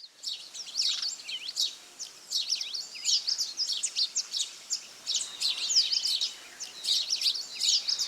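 A flock of house sparrows chirping, many quick chirps overlapping without a break.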